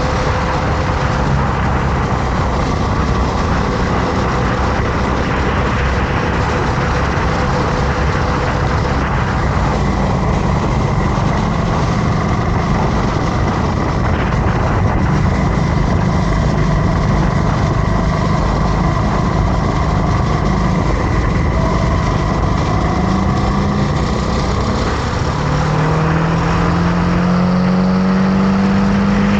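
Motorcycle engine running under way, with a steady rushing noise over it; its pitch climbs steadily over the last few seconds as the bike accelerates.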